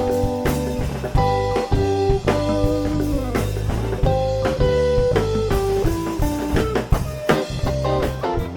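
Live rock band playing an instrumental passage: a melodic line of held guitar notes over bass guitar and drum kit.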